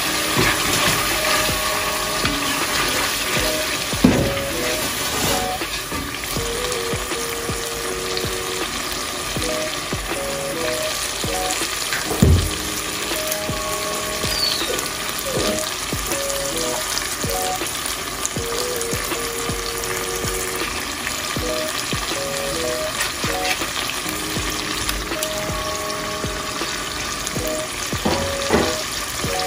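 Tomato stew frying and sizzling in a pot while a wooden spoon stirs it, with a few sharp knocks of the spoon against the pot. Soft background music with a simple melody plays throughout.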